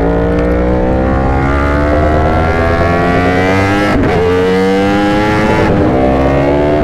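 Yamaha R1 sportbike engine with an Austin Racing exhaust, accelerating hard under load: the pitch climbs steadily, breaks briefly for an upshift about four seconds in, then climbs again.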